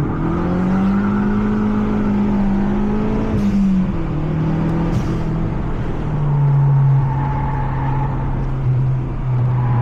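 Mazda 3 MPS turbocharged four-cylinder engine under load on track, heard from inside the car: it holds high revs, drops in pitch about three and a half seconds in and again around six seconds, then runs steady. A couple of short clicks come around the first drop.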